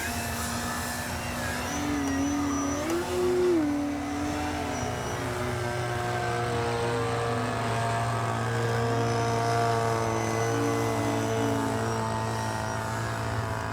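Electric RC 3D airplane's brushless motor and propeller whining in flight, the pitch rising briefly about three seconds in, its loudest point, then holding a steady tone with the throttle.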